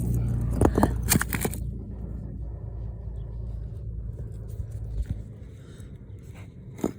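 A low, steady engine hum that fades away after about five seconds, with a few sharp clicks and scrapes in the first second and a half.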